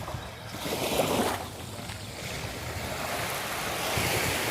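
Sea surf washing onto a beach, swelling loudest about a second in and again near the end, with wind rumbling on the microphone.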